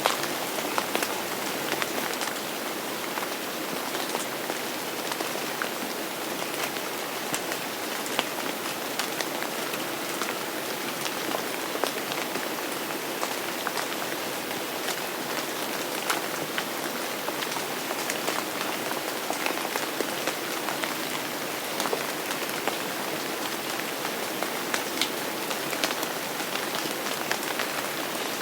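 Steady rain falling on a hard surface, with many individual drops clicking sharply over an even hiss.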